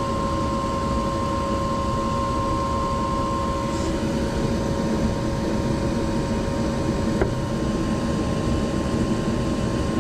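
Gas heater running steadily with its new inducer motor, burners and blower going: an even whir with a steady hum. A single light click about seven seconds in. The unit is running normally after the inducer motor replacement.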